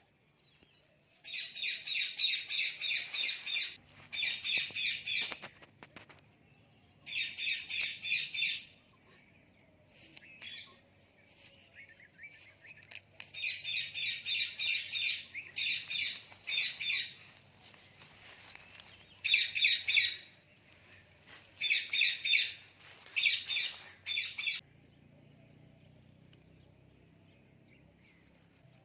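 Indian ringneck parrot calling: loud runs of rapid, shrill repeated notes, about six bursts of one to three seconds each, stopping near the end.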